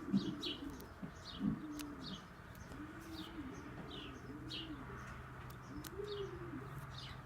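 Pigeons cooing softly, a string of low rising-and-falling coos, with small birds chirping high and brief in the background.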